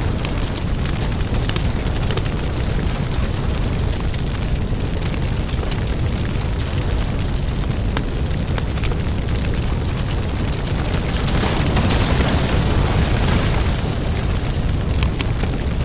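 Wood fire burning in a fireplace: a steady low rumble of flames with frequent small crackles and pops, swelling into a louder hiss for a few seconds past the middle.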